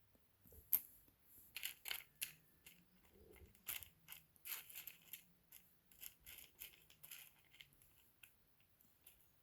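Rough opal chips being handled: a run of small clicks and rustles that starts about half a second in and dies away near the end.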